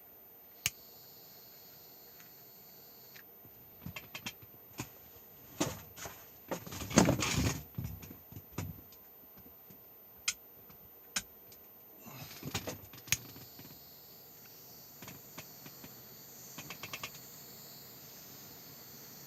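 Sharp clicks and rattling of small hard parts being handled, loudest in a burst of rattling about seven seconds in. A faint high hiss runs at the start and again through the second half.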